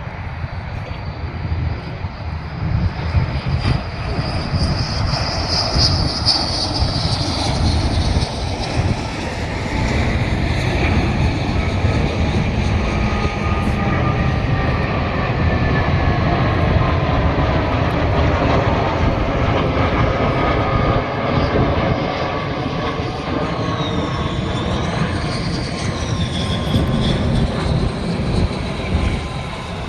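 An airplane's engines running loud and steady as it passes, a deep rumble with whining tones that slide slowly down in pitch through the middle. A high whine wavers up and down near the end.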